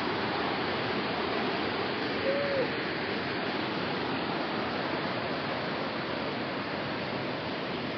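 Steady rush of flowing water from a waterfall or stream. About two seconds in, one short tone rises and falls over it.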